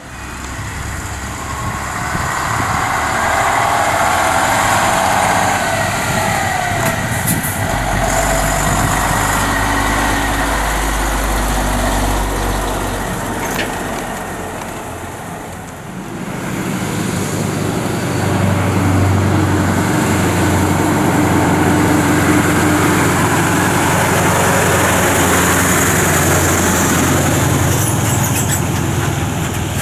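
Heavy lorry engines running as trucks move past, the sound swelling and fading, with a dip about halfway through before it builds again.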